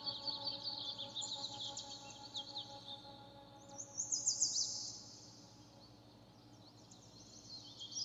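Small birds chirping and twittering in quick high calls, loudest about four seconds in and thinning out after, over a soft sustained musical drone that fades away.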